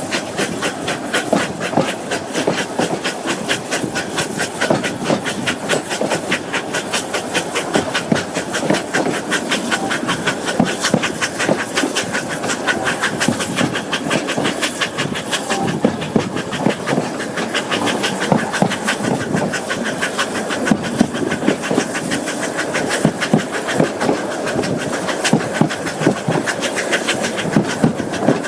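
Narrow-gauge 0-6-0 tank steam locomotive Caledonia working hard up a gradient, a fast, even run of exhaust beats over a steady hiss of steam. It is short of grip on greasy rails under a heavy five-coach train.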